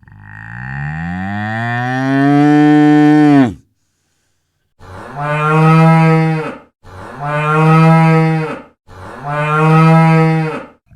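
Cow mooing: one long moo lasting about three and a half seconds, then three shorter moos one after another, and another beginning near the end.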